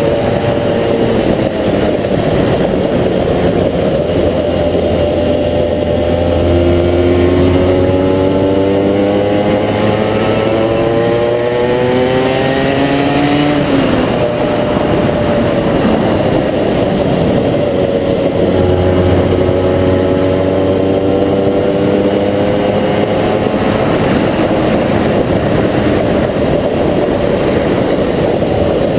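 Honda NSR 125 two-stroke single-cylinder engine running through a Giannelli aftermarket exhaust. It revs up twice, the pitch climbing slowly over several seconds and falling back each time.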